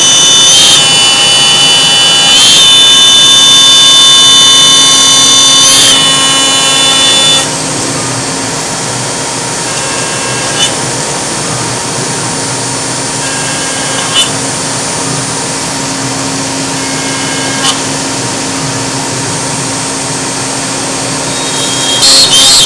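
CNC router spindle running with a loud, high-pitched whine. About seven seconds in it drops to a quieter, steadier hum with a faint tick every few seconds, and the loud whine returns near the end.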